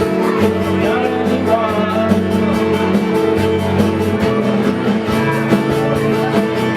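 Rock band playing with electric guitars and a steady beat, with some singing.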